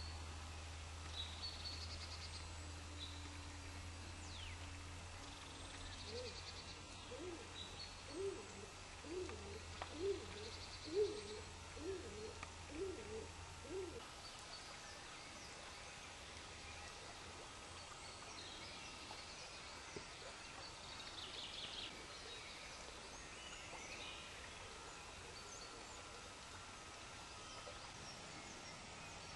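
Woodland birdsong: small birds calling and singing high throughout, with a quick trill past the middle. In the first half a bird gives a run of about a dozen low hoots, evenly spaced at a little under two a second, over a low steady hum.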